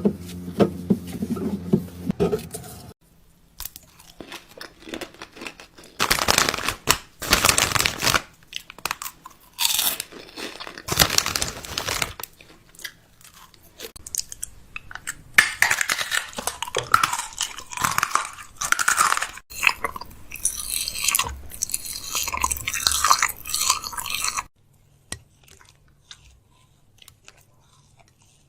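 Fridge restocking: packaging crinkling and crunching, with irregular knocks of containers being set down, after a short steady hum at the start. The handling stops a few seconds before the end.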